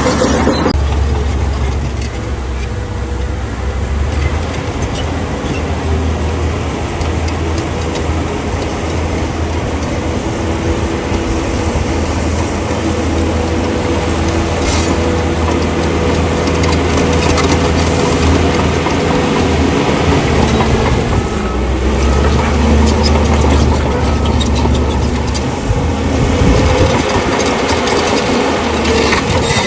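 Bulldozer's diesel engine running hard under load, its low note easing off briefly about two-thirds of the way through and then coming back, with scattered metallic clanks from the machine working.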